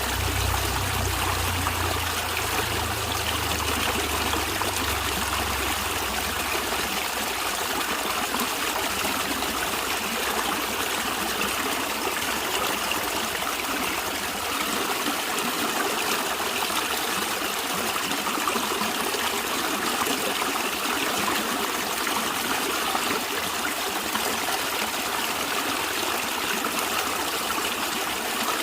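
Stream water flowing and trickling steadily, with a low rumble underneath that stops about six seconds in.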